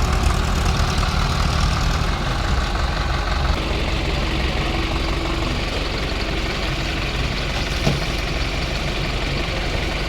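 Heavy diesel engines of earth-moving machinery running steadily, a little louder over the first three or four seconds, with a single sharp knock about eight seconds in.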